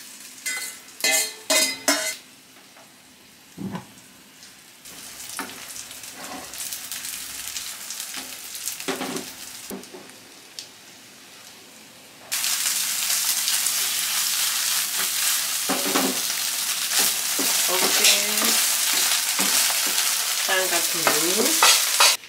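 Egg-coated bean curd sticks (kembang tahu) sizzling as they fry in oil in a wok, stirred and turned with a wooden spatula. In the first two seconds a steel bowl and fork clatter against the pan as the mix goes in. About twelve seconds in the sizzle suddenly grows much louder and stays loud.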